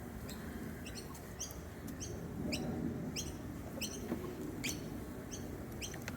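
A small bird repeating short, high chirps, about two a second, over a low background hum.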